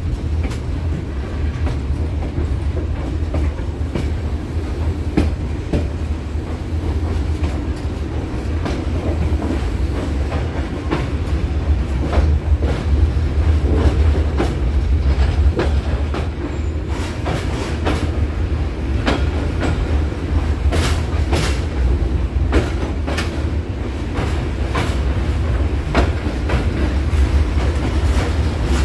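Passenger train rolling on the rails with a steady low rumble, its wheels clicking over rail joints and switches; the clicks come more often in the second half.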